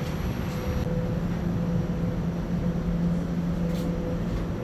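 Eglinton line train: a steady rumble with a low, even electrical hum that sets in about a second in.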